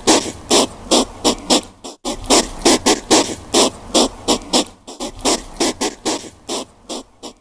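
An animal calling in a rapid series of short, harsh, noisy pulses, about three to four a second, with a brief break about two seconds in.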